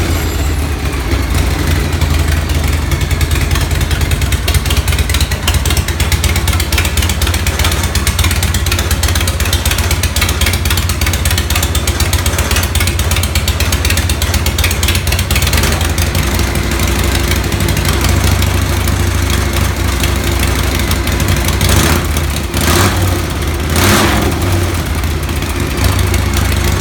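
93 cubic inch Shovelhead V-twin motorcycle engine running steadily at idle, with two brief louder bursts near the end.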